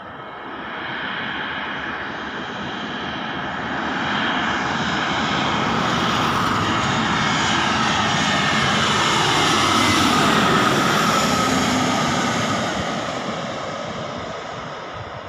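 Go First jet airliner on its landing approach flying past. Its engine noise builds, peaks about ten seconds in and then fades, with the engine whine dropping in pitch as it goes by.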